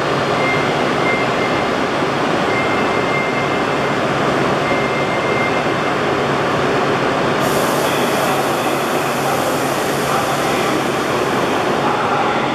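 Steady hum and whir of an N700S Kamome Shinkansen standing at the platform, its onboard equipment running. A faint high tone repeats every couple of seconds in the first half.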